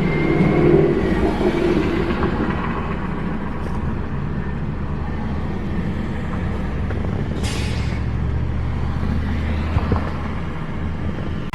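Car cabin noise while driving: a steady low engine and road hum, with a short hiss about seven and a half seconds in.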